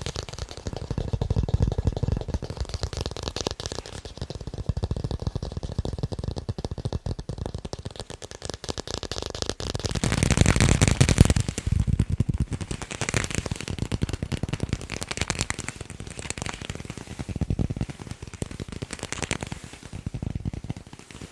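Fast tapping on sports balls: a dense, rapid stream of taps, loudest for a couple of seconds about ten seconds in.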